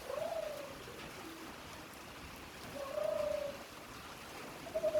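Doves cooing: a few low coos, one at the start, one about three seconds in and one near the end.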